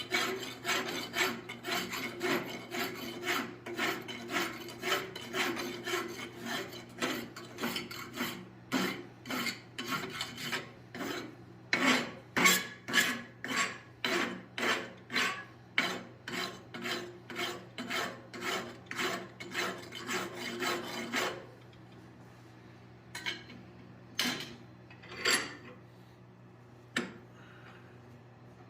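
A hand rasp filing hot forged steel in steady back-and-forth strokes, about two a second, knocking the top edge off. The filing stops about three-quarters of the way through, and a few separate light knocks follow.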